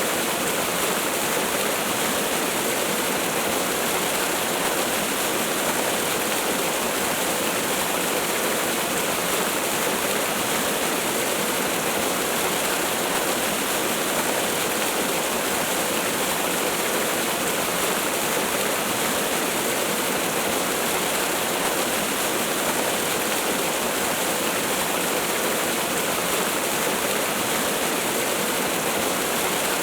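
Waterfall rushing: a steady, unbroken hiss of falling water with little deep rumble, unchanging throughout.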